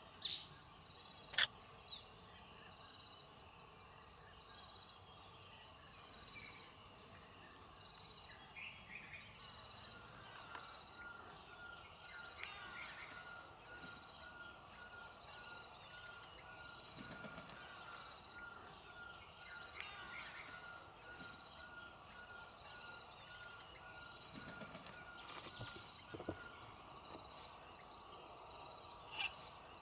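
Bush ambience with birds: one bird repeats a single short note about twice a second for some fifteen seconds. Underneath are a steady high insect hiss, a fast run of high ticks, and a few sharp clicks near the start.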